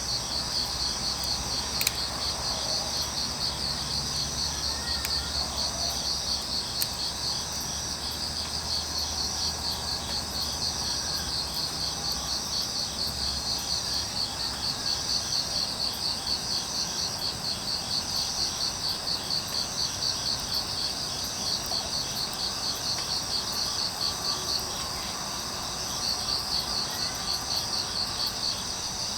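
Crickets chirping in a steady, evenly pulsing chorus, with a few faint isolated clicks.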